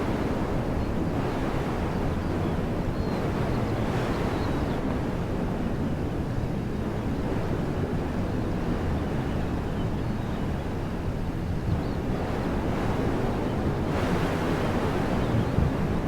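Wind blowing through trees, a steady rushing noise with a low rumble of wind on the microphone, swelling into a stronger gust near the end.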